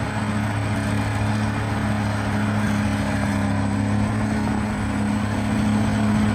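Bulldozer's diesel engine running steadily under load, a constant low drone with no change in pitch.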